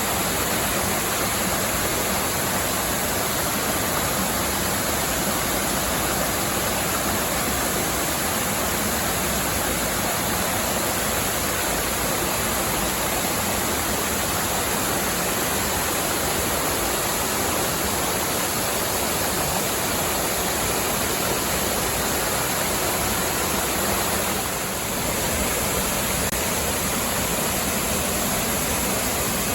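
Waterfall splashing: a steady, even rush of falling water, dipping briefly about 25 seconds in.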